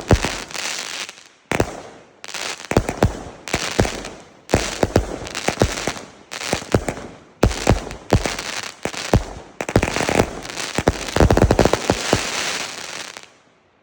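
Bugano 'Zeus' 100-shot, 20 mm firework battery firing its last shots in rapid clusters, sharp reports with crackling between them. It stops about 13 seconds in as the battery finishes.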